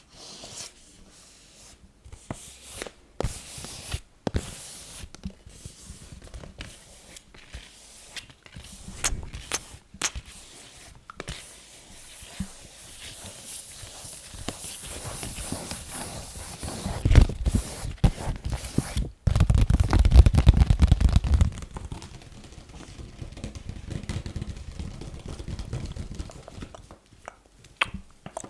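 Fast ASMR tapping and scratching: quick sharp taps mixed with scraping and scratching sounds. About two-thirds of the way in comes a louder, low rubbing for several seconds.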